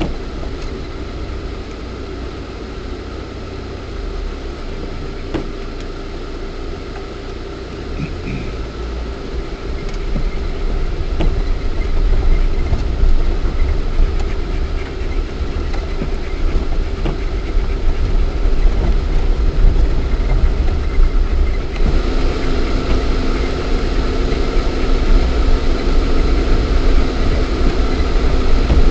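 Lada Niva's 1.7-litre four-cylinder engine running as the 4x4 is driven offroad, with road noise in the cabin. The noise grows louder about a third of the way in, and a steady whine drops in pitch about three quarters of the way through.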